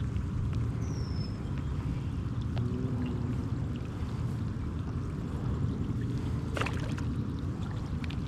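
Steady rushing of creek water flowing, with a single sharp click about six and a half seconds in.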